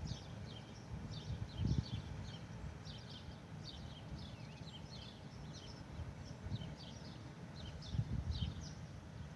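Small birds chirping in quick, short, high notes, several a second, over an uneven low rumble that swells briefly a couple of times.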